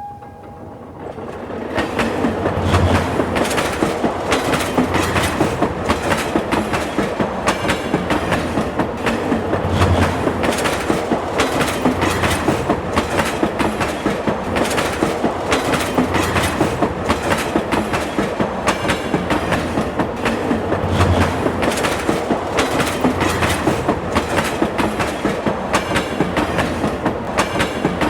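Train wheels rolling over rail joints: a fast, steady clickety-clack that builds up about a second in and keeps going, with occasional deeper thumps.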